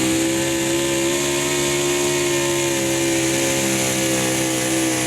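Super stock 4x4 pulling truck's engine held at high revs under load, a steady, loud note whose pitch rises slightly and then eases back down.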